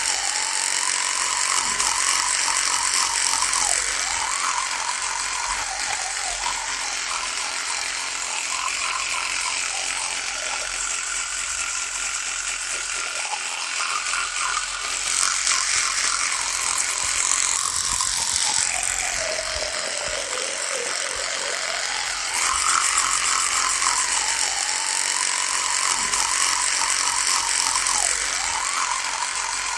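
Electric toothbrush buzzing continuously, its motor pitch sagging and recovering every few seconds and dropping lowest about two-thirds of the way through.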